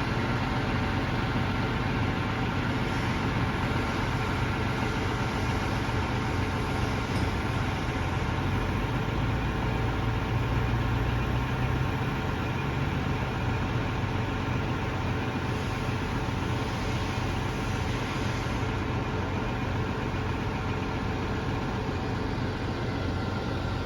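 Scania 124G truck's diesel engine running steadily: a low drone with a steady higher hum over it, the low part easing slightly about halfway through.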